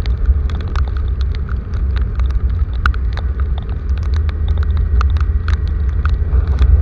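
Rain with many scattered drops striking close by, over a loud, steady low rumble.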